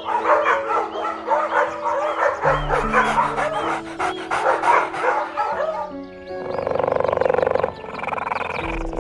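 A dog, likely puppies, giving many quick high yips and barks in rapid succession over background music with steady held notes. About six and a half seconds in, the yipping stops and a harsher, buzzing animal call takes over.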